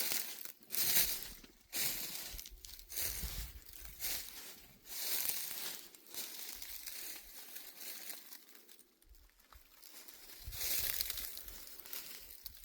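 Footsteps crunching and rustling through dry fallen leaves on a forest trail, about one step a second, easing off for a moment before picking up again near the end.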